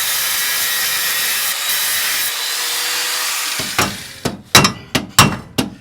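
Abrasive cutting of the steel engine-mount bracket on the chassis: a steady hiss with a faint motor whine that stops a little over halfway through. Then a run of quick, sharp metallic knocks, about four a second.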